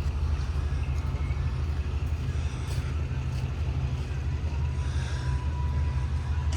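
Car engine running at idle, a steady low rumble that pulses rapidly.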